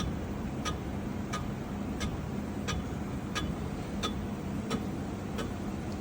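Machining equipment running with a steady hum, and a light, even tick about every two-thirds of a second, likely from the tool cutting the bearing lock grooves in the engine block.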